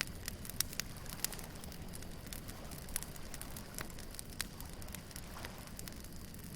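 Wood bonfire crackling, with sharp pops at irregular moments, over a steady low rumble of surf.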